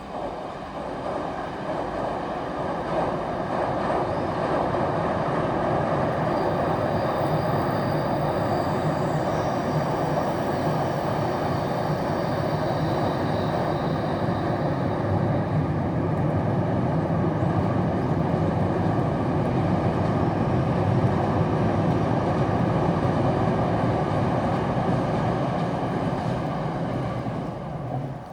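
Saphir Odoriko train (E261 series electric multiple unit) passing over a steel railway bridge: a continuous loud rumble and rattle of wheels on the bridge that builds over the first few seconds, holds steady, and falls away near the end.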